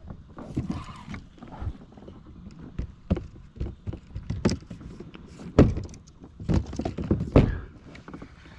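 Irregular knocks and thumps against a kayak hull while a hooked sheepshead is fought to the boat, with three louder thumps in the second half.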